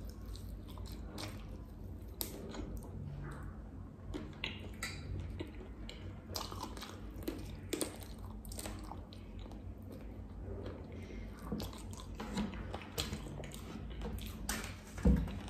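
Close-up eating sounds: a man chewing and biting roast chicken, with irregular wet smacks and small clicks of mouth and fingers. Near the end there is a dull knock as a plastic cola bottle is picked up.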